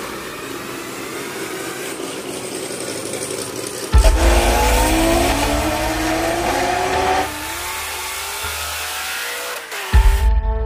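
Street cars' engines at full throttle in a cut-together run of clips. About four seconds in, a loud engine pulls hard, its pitch rising steadily through the revs for a few seconds before easing off. Near the end another engine comes in abruptly and loud.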